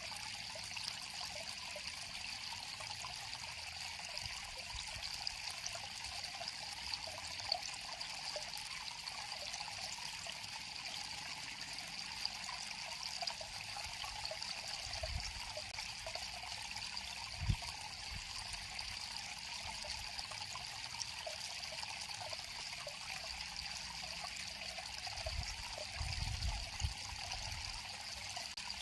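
River water flowing steadily, a continuous trickling, rushing hiss. A few soft low thumps break in, one past the middle and a small cluster near the end.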